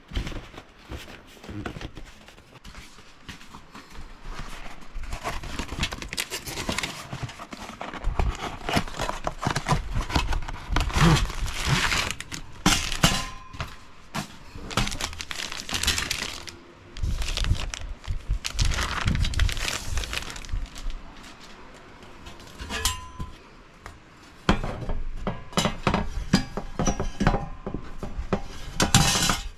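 Crinkling and rustling with frequent knocks and clatter, as camping gear is handled and unpacked by hand.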